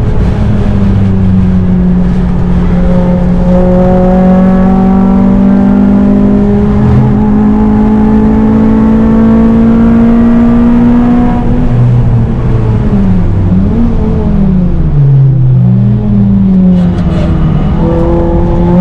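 Honda Civic Type R four-cylinder engine under hard acceleration, its pitch climbing steadily for about ten seconds. Then the revs dip and rise several times as the throttle comes off and goes back on, before the pitch climbs again near the end.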